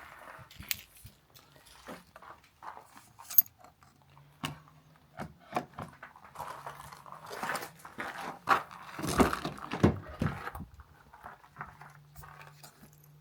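Assorted small clicks, knocks and clatter of objects being handled, busiest a little past the middle, with a low steady hum setting in about four seconds in.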